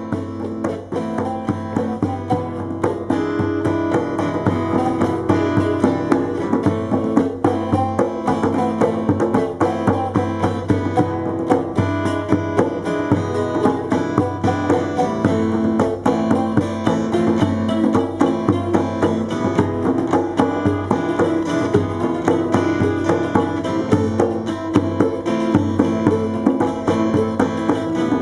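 Brazilian popular music played by a band: plucked strings over percussion with a steady beat.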